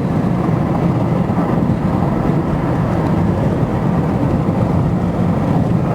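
Steady low road and engine noise of a vehicle in motion, an even rumble with no breaks.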